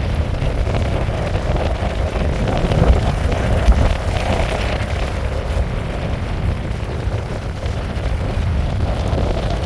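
Steady rain falling, with a low rumble of wind buffeting the microphone.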